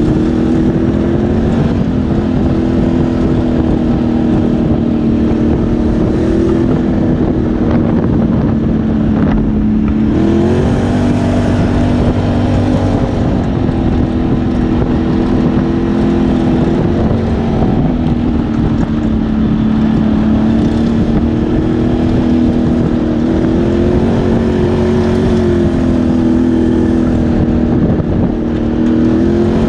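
ATV engine running while the machine is ridden along, its note rising and falling with the throttle, with a brief drop and climb in pitch about ten seconds in.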